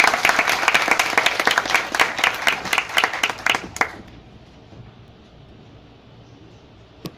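Audience applauding, the clapping thinning out and stopping about four seconds in, leaving the quiet hum of a large hall with one sharp click near the end.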